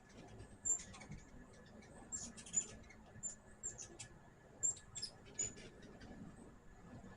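Hummingbirds chipping: short, very high-pitched chips, about a dozen at irregular intervals.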